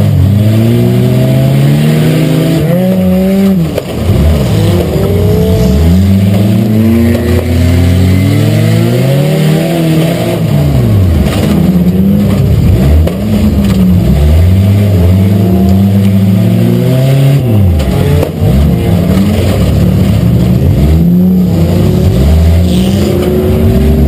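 Chevy Cavalier's engine heard from inside its cabin, driven hard: it revs up and drops back over and over, its pitch climbing and falling every couple of seconds.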